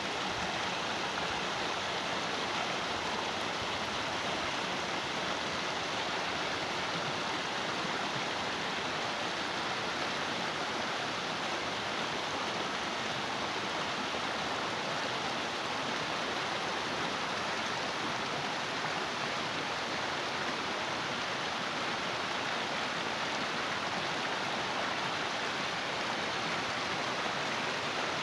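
Running water of a small stream, a steady, even rushing without breaks.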